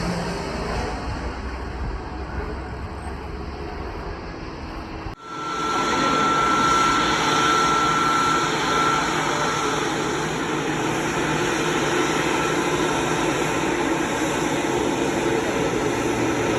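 Jet airliner engine noise, a steady roar. An abrupt cut about five seconds in switches from a fading low rumble to a fuller roar carrying a high steady whine, which dies away a few seconds later.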